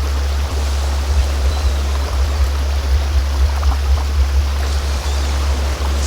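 Steady low hum of a sound-healing frequency tone under an even, unbroken rush of flowing stream water.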